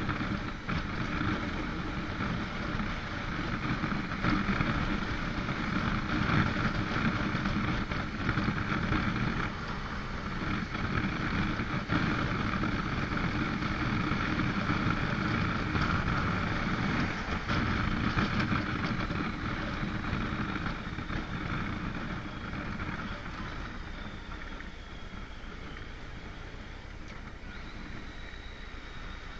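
Motorcycle engine running under way with wind rushing over the microphone, steady for most of the stretch, then getting quieter over the last several seconds as the bike eases off.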